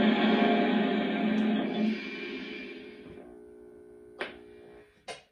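The onboard sound system of a Lionel Legacy Union Pacific FEF-3 #844 model plays its shutdown sequence. A loud, steady pitched sound fades away by about three seconds in, then a fainter steady hum runs on, with two sharp clicks near the end.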